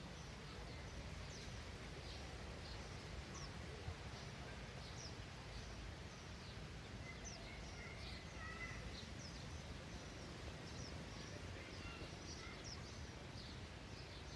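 Small birds chirping: many short, high, falling chirps scattered throughout, with a brief warbling call about halfway through, over a steady low outdoor rumble.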